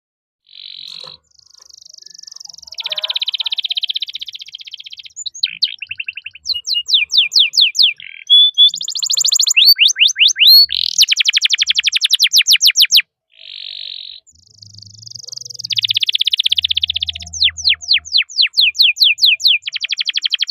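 Domestic canary singing in long phrases of fast buzzing rolls and runs of quick repeated sweeping chirps, with short pauses between phrases.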